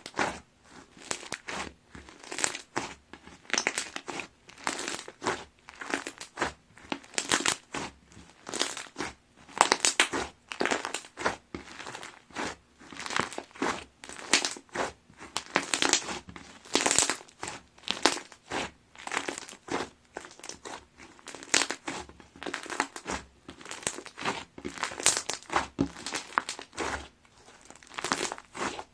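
Iceberg slime being squeezed and pressed by hand, its dried, crusted top layer crackling and crunching with many crisp crackles a second, coming in waves.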